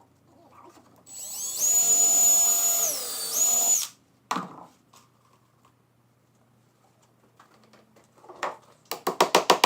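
Electric drill running in wood for about three seconds with a high whine. Its pitch dips briefly as it loads up and then recovers before it stops. A single knock follows, and near the end comes a quick run of sharp taps.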